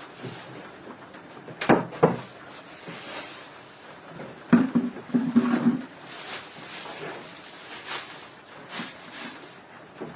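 Two sharp knocks, then a short run of clattering knocks with a low ringing note about halfway through, among fainter scraping handling sounds.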